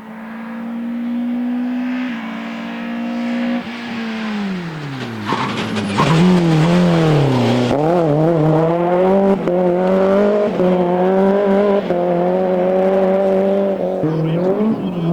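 Rally car engine at high revs. The pitch holds, then drops steeply about four seconds in. From about six seconds it is suddenly louder, the revs rising and falling repeatedly.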